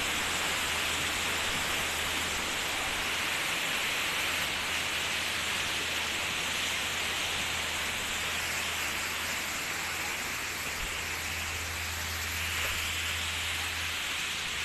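Steady hiss of a waterfall's rushing water.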